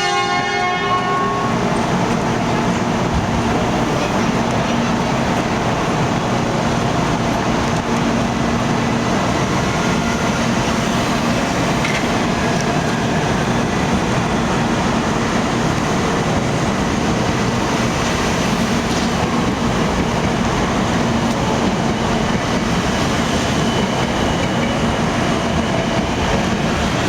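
Tokaido Shinkansen train running past, a steady rushing rail noise at an even level; the last of its horn blast fades out about a second in.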